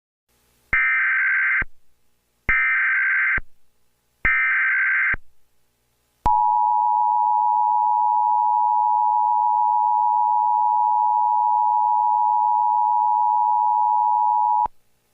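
Emergency Alert System tones: three short bursts of SAME header data, each just under a second long, then the steady two-tone attention signal held for about eight seconds before it cuts off suddenly. Together they announce that an emergency alert message follows.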